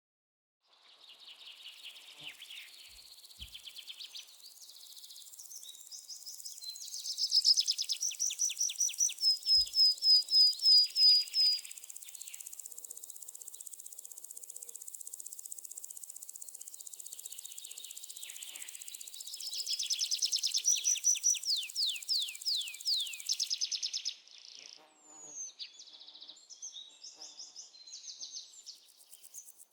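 Rainforest ambience: a steady high-pitched insect drone with birds calling over it, in fast runs of repeated notes that swell loudest twice, near the middle and again later. Near the end the insect drone drops out, leaving scattered bird chirps.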